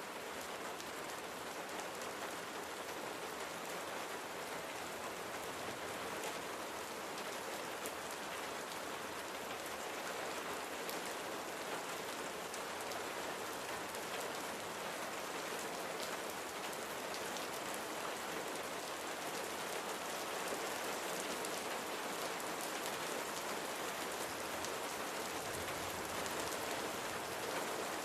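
Steady rain falling, with fine drop ticks over an even hiss; it grows slightly louder near the end.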